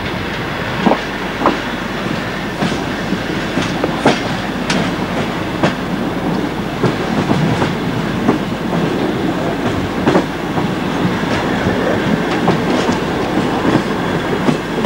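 Passenger train running along the track, heard from inside the carriage: a steady rumble of the wheels and running gear, with sharp clacks from the wheels crossing rail joints every half second to a second.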